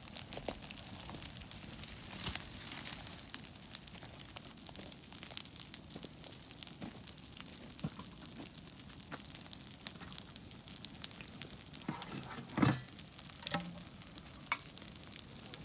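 Small campfire of birch bark, twigs and split wood crackling and sizzling with scattered small pops. About three-quarters of the way through there is one louder knock.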